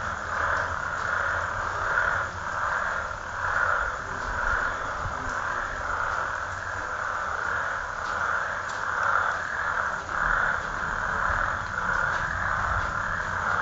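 Dense chorus of calling frogs, a steady massed trill that swells and fades about once a second, over a low rumble.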